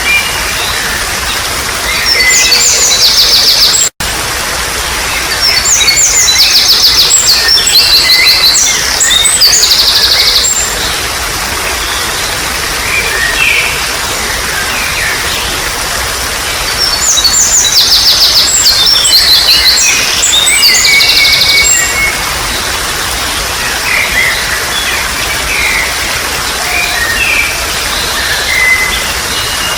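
Wild birds singing over a steady babble of flowing water. Three loud bouts of fast, repeated high notes, each lasting two to four seconds, stand out, with scattered single chirps in between. The sound cuts out for an instant about four seconds in.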